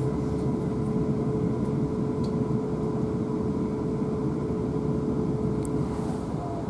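Inside a South Western Railway Class 450 Desiro electric multiple unit running at speed: a steady rumble from wheels on track, with a constant whine held at one pitch.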